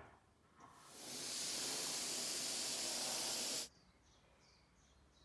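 Paint spray gun spraying: a steady hiss of air and paint that builds up about a second in, holds for nearly three seconds and cuts off suddenly.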